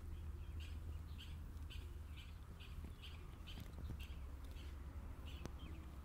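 A bird repeating one short call about twice a second, over a low steady rumble.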